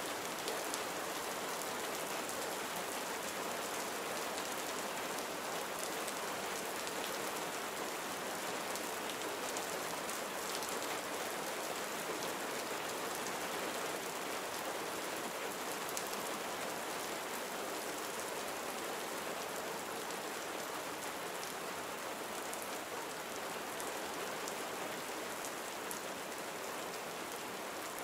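Steady gentle rain falling on surfaces, an even hiss with a scatter of fine individual drop ticks.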